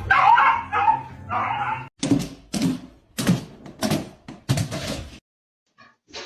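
A dog whining with a high, wavering voice, then barking five times in quick succession. It stops suddenly a little after five seconds in.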